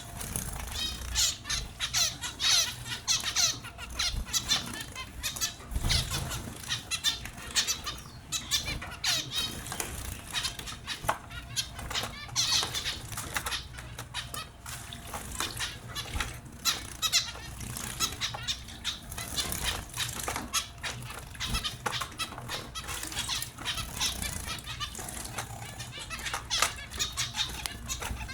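A flock of small finches chirping rapidly and continuously, with bursts of wing fluttering.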